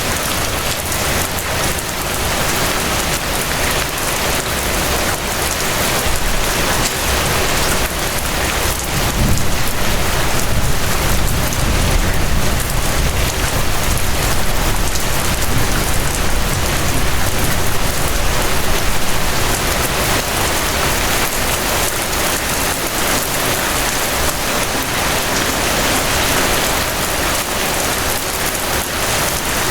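Steady rain falling, an even dense patter of drops, a little louder and deeper for several seconds in the middle.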